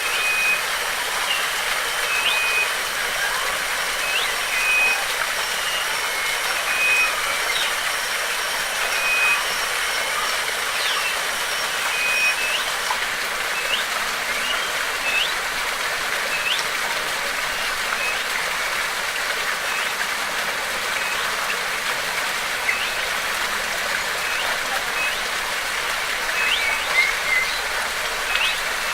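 Rushing water running steadily, with small birds repeatedly giving short chirps and quick rising calls over it.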